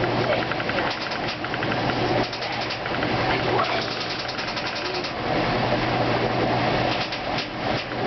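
2008 Kenmore washing machine on its spin cycle: a steady motor hum with a rapid ticking rattle that comes and goes.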